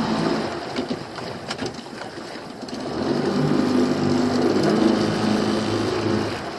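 Small fishing boat's engine running at low revs. The steady drone sags in the first second, then builds back up about three seconds in and holds.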